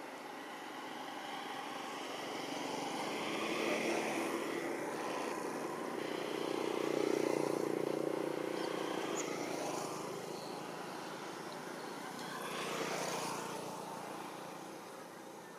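Passing road traffic: engine and tyre noise swells and fades as several vehicles go by, loudest about seven seconds in, with another pass near the end.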